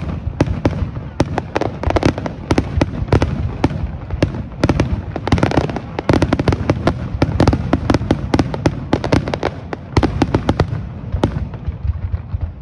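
Fireworks display: aerial shells bursting in quick succession, many sharp bangs close together over a continuous low rumble.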